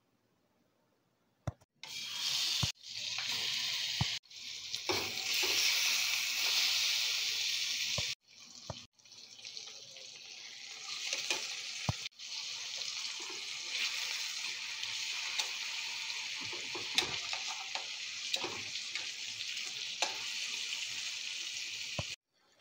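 Turmeric-coated plantain slices sizzling as they fry in hot oil in a pan, with scattered pops and crackles. The sizzle starts about two seconds in and is loudest for the first several seconds, broken by a few sudden cutoffs. It then settles to a steadier, quieter hiss.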